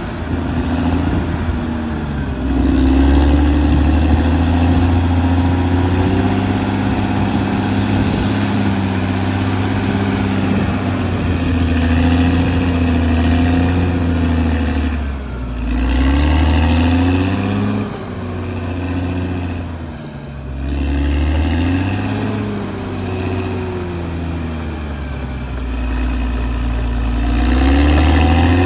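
Caterpillar D6R XL bulldozer's diesel engine running as the dozer works. Its note dips and climbs back several times, around the middle and again near the end.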